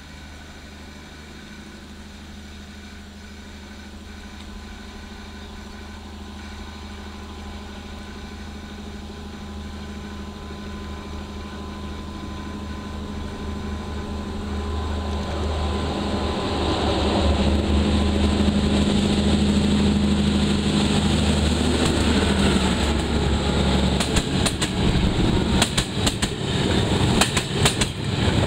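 Diesel train approaching: its engine hum grows steadily louder over the first half. In the last few seconds the wheels start clicking over the rail joints as it draws level.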